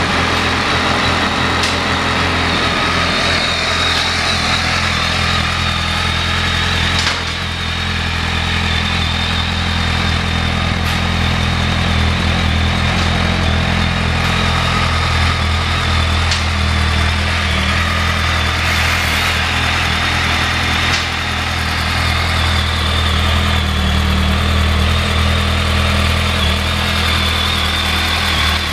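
2005 BMW K1200S's inline four-cylinder engine idling steadily.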